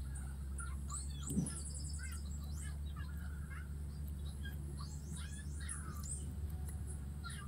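Birds chirping and calling, with quick runs of high twittering notes and short falling whistles, over a steady low hum; a soft thump about a second and a half in.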